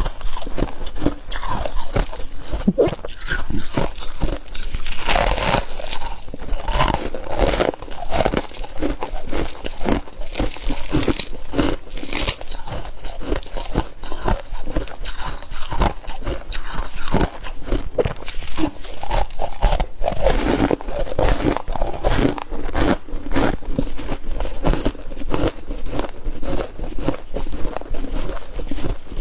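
Close-up crunching and chewing of flaky freezer frost in a person's mouth, a dense run of crisp crunches.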